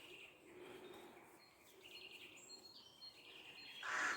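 Small birds chirping faintly in short high calls, with a brief noisy burst near the end that is the loudest sound.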